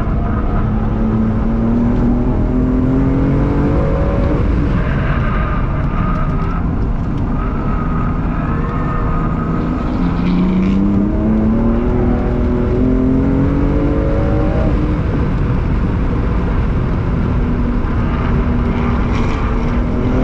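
BMW M4's twin-turbo straight-six at full pull, heard from inside the cabin on track. The revs climb for about four seconds and drop, climb again from about ten seconds to fifteen and drop, then hold fairly steady, with loud road and tyre noise underneath.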